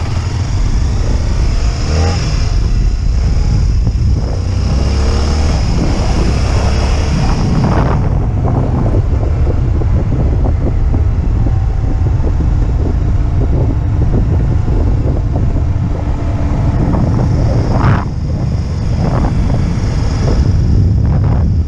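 Motorcycle engine running while riding over rough ground, a constant low rumble with many irregular knocks and rattles from the bumps, and a few brief rises in engine pitch in the first seconds.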